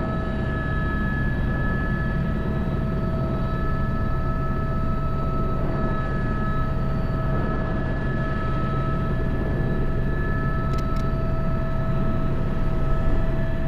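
Airbus H125 helicopter in flight, heard from inside the cockpit. The rotor and turboshaft engine make a steady drone, with several constant high whining tones over it.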